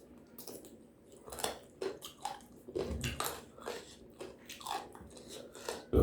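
Close-miked chewing and biting: a person eating with irregular short, crunchy mouth sounds, several a second, starting about a second in.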